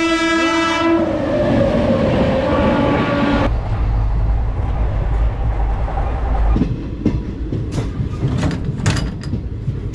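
Passenger train sounding its horn at the start, then the steady low rumble of the moving train, with sharp clicks from the rails in the later seconds.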